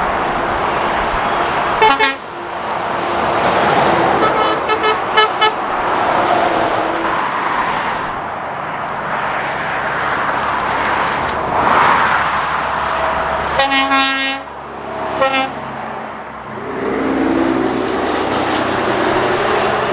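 Heavy traffic passing on a dual carriageway, with a vehicle horn sounding: one toot, a run of quick toots a few seconds later, then a longer blast and a short toot near the middle.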